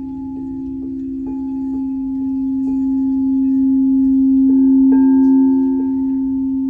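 Crystal singing bowl sounding a steady low tone with fainter higher overtones, swelling slowly in loudness, with a faint regular pulse about twice a second. About four and a half seconds in, a higher ringing tone joins it.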